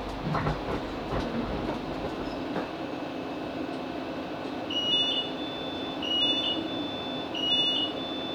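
Inside a Class 458 electric multiple unit as it comes to a stand, with a few knocks and clunks. Then an electronic beep followed by a higher tone sounds three times, about 1.3 s apart, typical of the warning as the passenger doors open.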